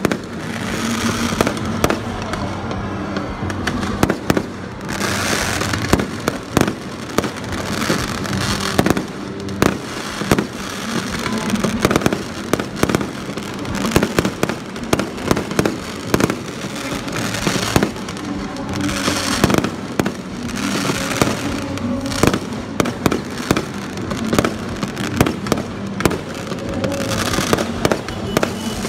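Aerial fireworks display: a continuous barrage of sharp bangs from bursting shells, several a second, with stretches of dense crackling from crackle-effect stars.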